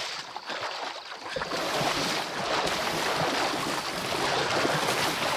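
River water rushing and splashing around horses wading in it, louder from about a second and a half in.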